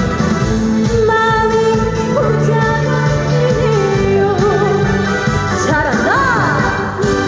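A woman singing a Korean trot song live over amplified backing music, holding a note with wide vibrato near the end.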